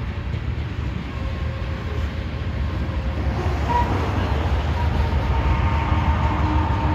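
A freight train rumbling, slowly growing louder as it approaches. A faint steady whine comes in about halfway through.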